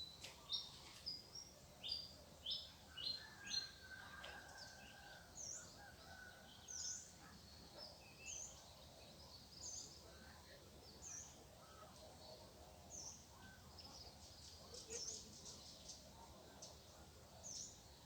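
Small birds chirping faintly, short high notes: a quick run of them in the first few seconds, then single chirps about every second and a half.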